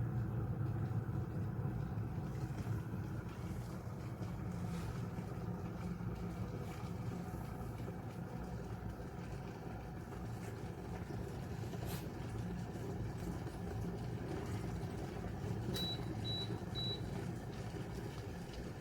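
ecosa glass electric kettle heating water: a steady low rumble of the water coming up to heat. Near the end come three short, high beeps.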